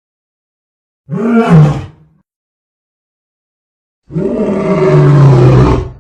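Lion roaring twice: a short deep roar about a second in, then a longer one about four seconds in, each rising and then falling in pitch, with dead silence between.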